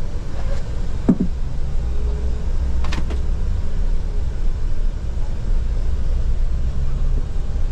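Steady low rumble of a Scania multi-axle coach on the move, heard from inside the cabin, with a couple of short knocks or rattles about one and three seconds in.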